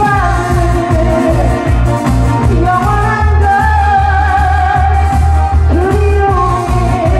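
Amplified singing over a backing track with a steady, heavy bass beat.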